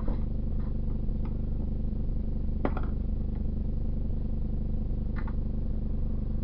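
A steady low hum, with four short sharp clicks of hand tools being handled.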